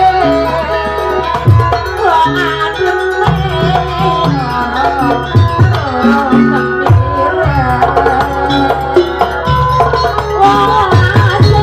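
Live Banyuwangi traditional ensemble music for a barong dance: hand drums beating under a wavering melody that bends in pitch.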